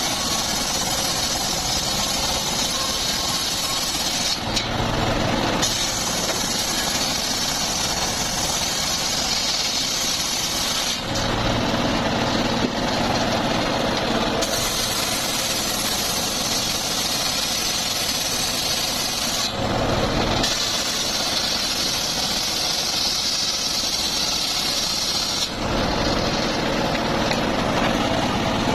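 A homemade engine-driven circular saw rig runs steadily while its blade rips through teak in long cuts lasting several seconds. The hiss of the cut drops away for a moment four times, leaving only the engine and the spinning blade.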